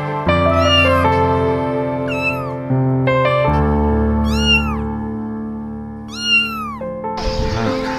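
Music with sustained keyboard-like chords, with a cat meowing four times over it, each meow rising then falling in pitch. About seven seconds in, a steady hiss comes in.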